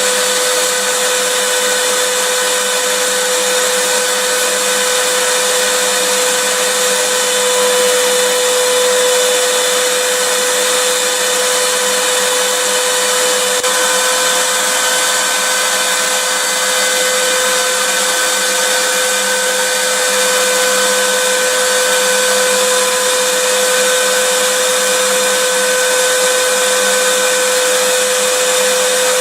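Vacuum cleaner running steadily: a constant hiss with a steady whine, and a fainter, higher whine that comes in about halfway through.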